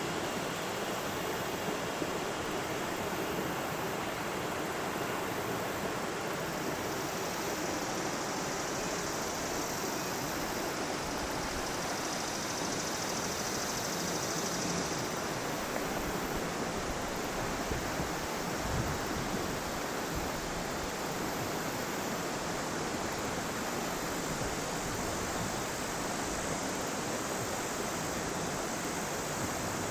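River water flowing, a steady, even rush of moving water that neither rises nor falls.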